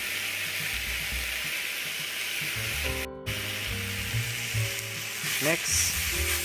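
Broccoli stems and onions frying in hot olive oil in a small frying pan, a steady sizzle with a brief break about three seconds in.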